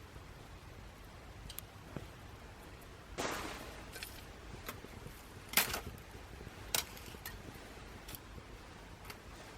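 Small twig fire crackling in a homemade aluminium fire stand: scattered sharp pops about once a second, the loudest just past halfway, with a longer crackling burst about three seconds in.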